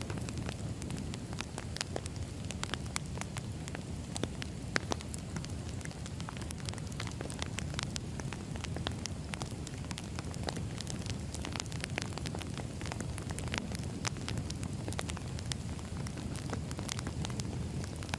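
Firewood burning: a steady low rumble of the flames with frequent sharp crackles and pops from the logs, a few of them louder.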